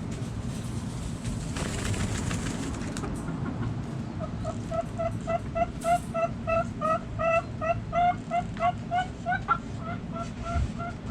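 A backyard fowl calling a fast run of short, even notes, about three a second, starting about four seconds in, over a steady low rumble.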